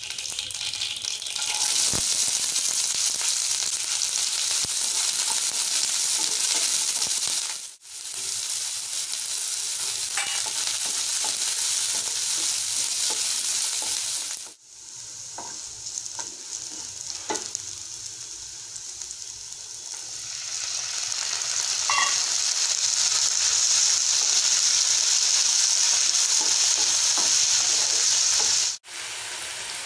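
Oil sizzling in a nonstick pan as mustard seeds fry and then chopped small onions, curry leaves and tomatoes are stirred in, with scattered light clicks. The steady hiss drops out briefly three times, and it is quieter for a while after the middle before swelling again.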